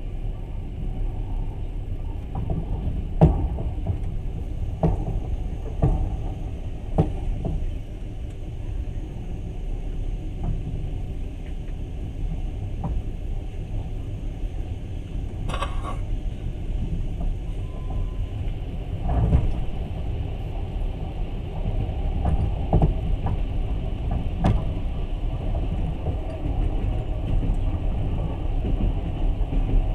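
Passenger train running on the rails, heard from inside the carriage: a steady low rumble with a handful of sharp knocks scattered through it.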